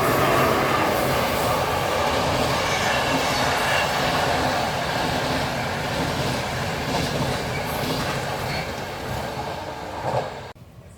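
Train running past close by, with a loud rush of wheels on the rails and some clickety-clack. It eases off slowly, then cuts off abruptly near the end.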